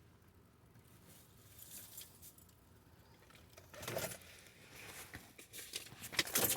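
Personal belongings being handled inside a car: scattered rustles and light clinks of keys and bag contents, with a louder burst of handling about four seconds in.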